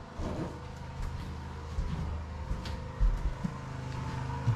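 A steady low mechanical hum, like an engine or generator running, with a few dull thumps, the loudest about three seconds in.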